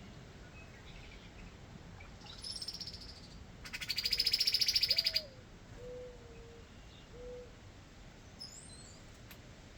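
A songbird's fast, high, dry trill, loud for about a second and a half, with a softer trill just before it. Over and after it comes a low, soft cooing phrase of four notes, the second sliding up and down, typical of a mourning dove. A short high chirp follows near the end.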